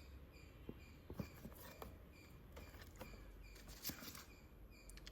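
Faint, scattered light taps and rustles from the paper instruction manual and packaging being handled, over near silence.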